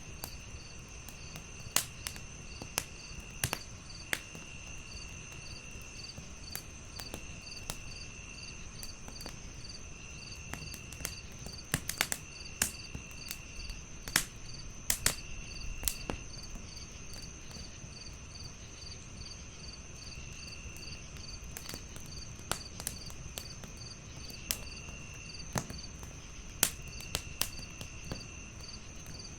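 Crickets chirping in layers: a steady high trill, a regular chirp about two or three times a second, and a lower trill that comes and goes in spells of about a second. Over them a wood fire crackles with sharp scattered pops that bunch together near the middle.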